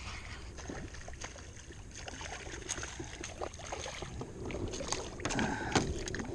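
Small splashes, knocks and clicks at the side of a kayak as a hooked trout is brought in, over a steady low rumble of wind on the microphone. The activity picks up about five seconds in.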